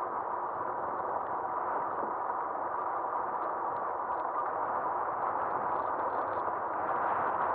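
Steady rushing wind and tyre noise of an e-bike riding on pavement, picked up by a cheap action camera mounted on the front of the bike, with faint light ticks and rattles over it.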